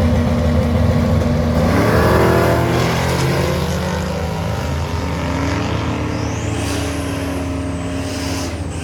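Drag-racing vehicle's engine running steadily, then revving up about two seconds in, with its pitch changing after that.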